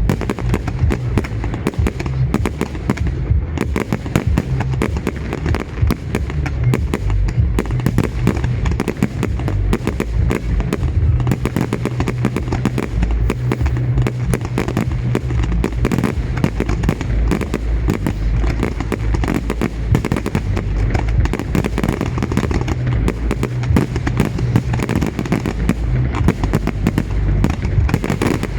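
Fireworks display: a dense, continuous barrage of rapid overlapping bangs with a deep low rumble underneath.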